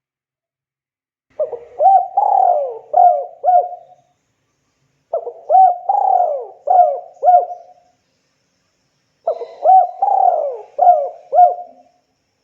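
Spotted dove (tekukur) cooing: three song phrases a couple of seconds apart. Each phrase is a short opening note, a long falling coo, then three quick clipped coos.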